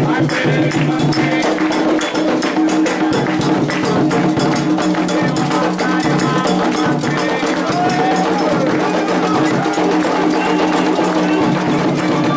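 Candomblé ritual music: fast, steady drumming with sharp percussive strokes and voices singing.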